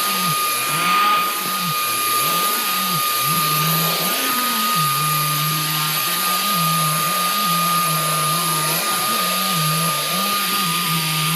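Hoover vacuum cleaner running steadily, with a constant high whine and a lower hum that wavers up and down. The uploader suspects the vacuum is clogged.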